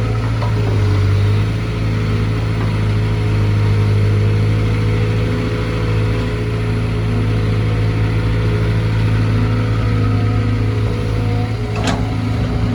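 Caterpillar C4.4 four-cylinder diesel engine of a CAT 320GC excavator running at a steady speed, with one brief sharp knock near the end.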